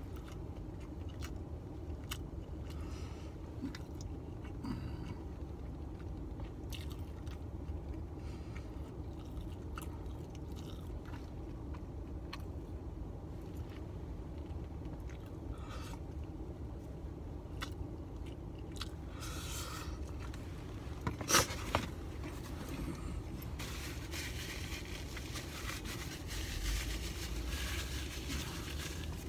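A person chewing and eating, with a plastic fork clicking and scraping in a foam takeout container, over a steady low hum inside a car. A few sharp knocks stand out about two-thirds of the way through, and there is rustling near the end.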